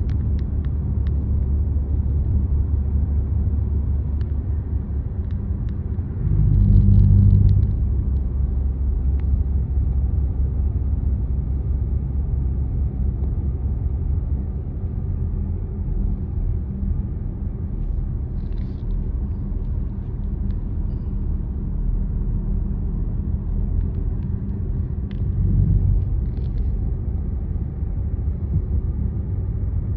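Car driving along a road: a steady low rumble of tyres and engine, swelling louder for about a second and a half around seven seconds in and again briefly near twenty-six seconds.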